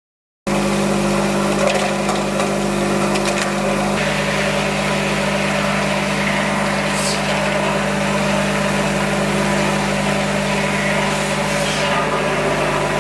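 Vibratory bowl feeder with a 600 mm stainless steel bowl running: a steady electric hum with a dense metallic rattle and scattered clicks from the sheet-metal washing-machine parts moving along the track. It cuts in suddenly about half a second in.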